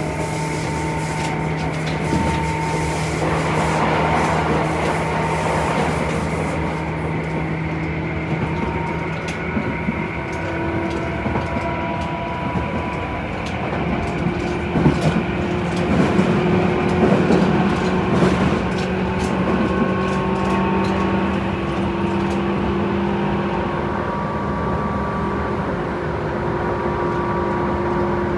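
Inside a Tobu 10030-series electric commuter train car running at speed: a steady rumble of wheels and motors with several humming tones that shift in pitch partway through. Rail-joint clicks and rattles come through the middle stretch.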